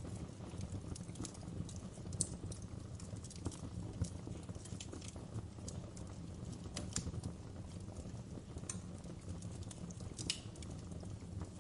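Wood fire crackling, with irregular sharp snaps and pops over a low steady rumble of the burning.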